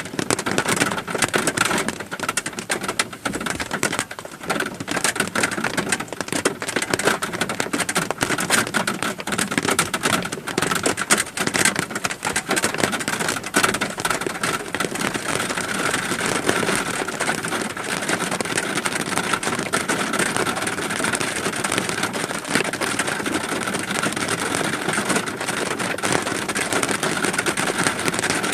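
Steady rain, with many separate drop hits that thin out to a smoother wash about halfway through.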